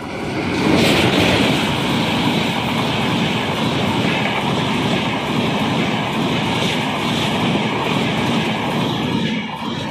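Passenger train passing close by: the locomotive's sound peaks just under a second in as it goes past, then the coaches roll by in a steady, loud rumble on the railway bridge.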